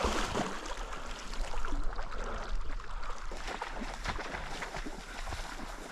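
Water sloshing and splashing in an irregular, uneven pattern, with a slight swell about two seconds in.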